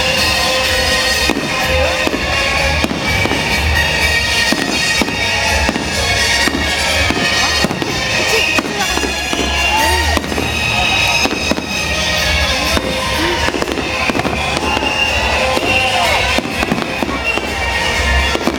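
Aerial fireworks bursting in rapid succession, with many sharp bangs and crackles throughout, over music playing loudly.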